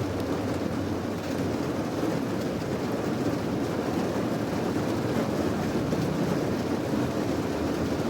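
Steady rain: an even, unbroken rushing noise that sits mostly in the low and middle range.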